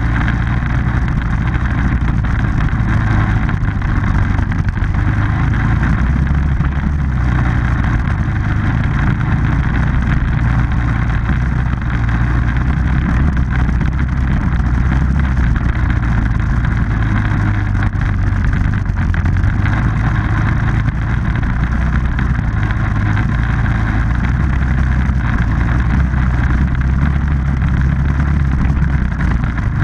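Off-road vehicle engine running steadily at a fairly even speed, loud and close.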